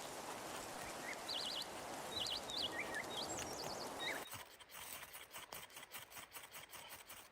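Small birds chirping in short trills over a steady rushing noise. About four seconds in this cuts off suddenly to a quieter run of sharp clicks, several a second.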